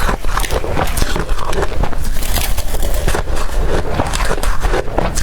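Blended ice being bitten and crunched close to the microphone, a dense irregular run of crackling crunches.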